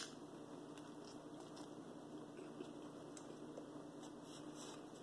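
A short bite into a hamburger at the start, then faint chewing of the mouthful, with soft crackles scattered through it.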